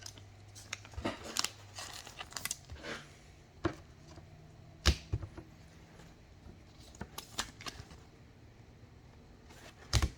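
Trading cards being handled and flipped through on a table: scattered light clicks and taps, with a sharper tap about five seconds in and another near the end.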